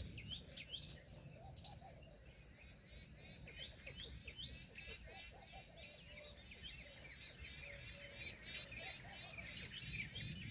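A flock of small birds chirping and twittering in rapid, overlapping calls, faint over outdoor background noise, with a few sharp clicks in the first two seconds.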